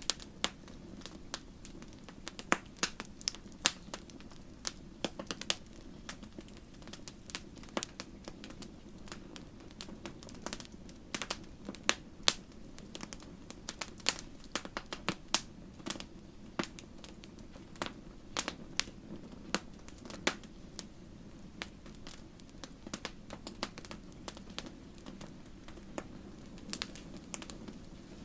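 Wood campfire crackling: frequent irregular sharp pops and snaps over a steady low rumble of the burning fire.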